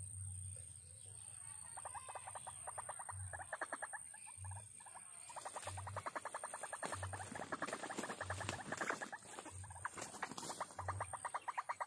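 Animal calls in rapid pulsed runs, about a dozen pulses a second, repeating in several bouts with short gaps.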